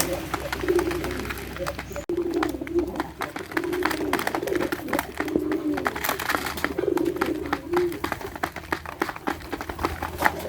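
Several pigeons cooing over and over, low wavering coos that follow one another every second or so, with many quick sharp clicks mixed in.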